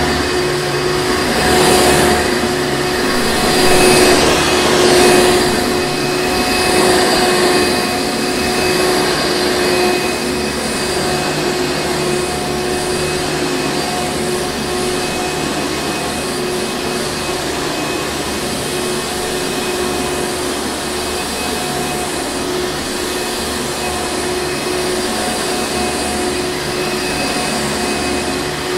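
Hoover Encore Supreme upright vacuum cleaner running steadily: a constant motor hum over the rush of air. It swells louder a few times in the first several seconds, then settles to an even level.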